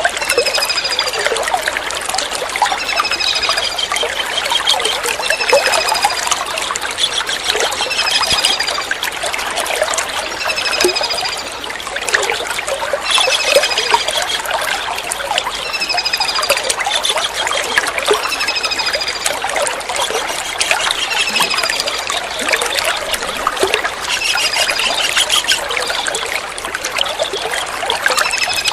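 Steady trickling water under a kingfisher calling over and over: short, high, falling notes with a brief trill, repeated every two to three seconds.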